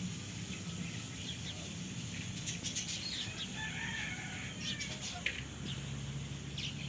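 Many birds chirping and calling, short high chirps scattered throughout, over a low steady hum.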